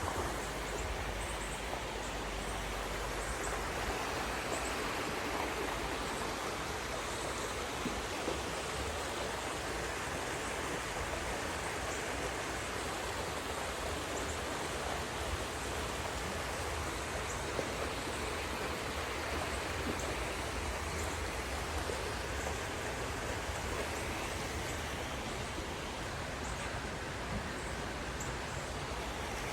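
Creek water running steadily, with faint, short high chirps now and then.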